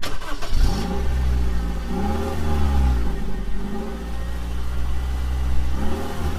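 Car engine idling with a steady low drone, revved several times so the pitch rises and falls with each blip.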